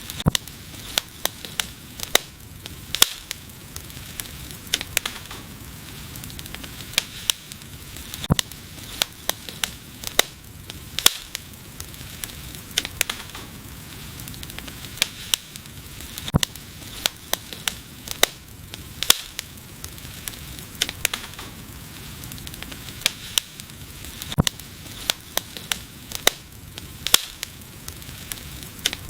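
Wood fire burning, with a steady hiss under frequent sharp crackles and pops, a few of them much louder than the rest.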